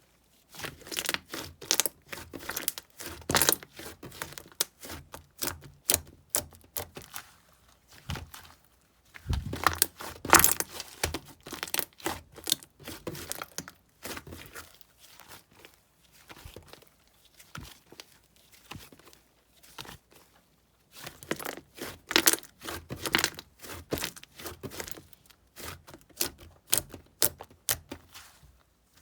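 Yellow cheese slime being kneaded and pressed by hand, making rapid sticky clicks and small popping crackles in irregular bursts with short pauses between them.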